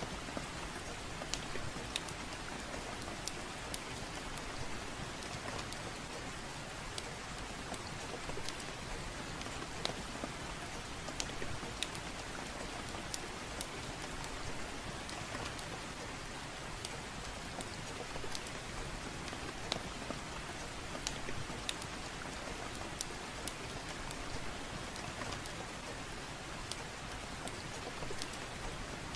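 Steady soft rain falling, with scattered sharp pops and crackles from a wood fire in a fireplace, one or two a second at irregular intervals.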